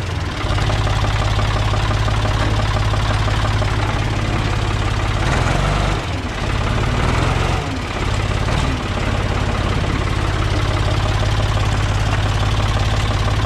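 Ford backhoe tractor's engine running steadily, with two brief dips in level around the middle.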